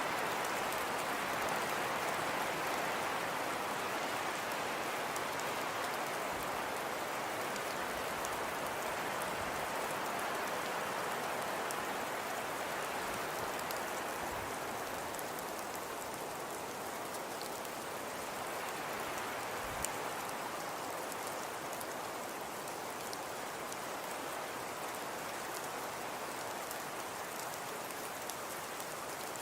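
Crackling fire: a steady hiss with faint, scattered crackles, and one louder pop about twenty seconds in.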